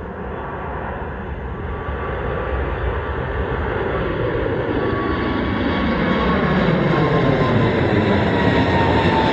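Jet engines of an Airbus A220-300 (Pratt & Whitney PW1500G geared turbofans), growing steadily louder as the aircraft draws near. A thin whine slowly falls in pitch, and a low rumble swells from about halfway through.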